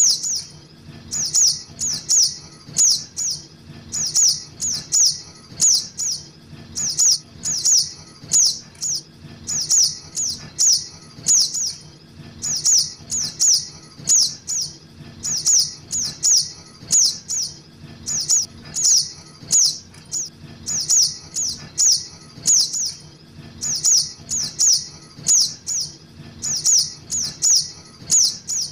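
Juvenile crimson sunbird calling: rapid, high, thin chirps, each a quick downward sweep, in runs of two to four notes that repeat steadily.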